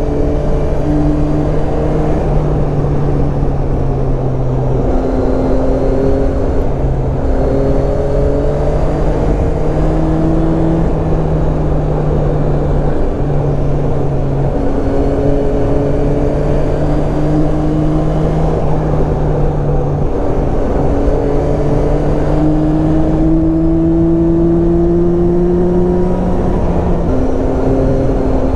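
Yamaha Tracer 9's 890 cc inline-three engine running under way. Its pitch climbs in stretches of a few seconds and drops back many times as the speed and gear change, over a steady rush of wind and road noise.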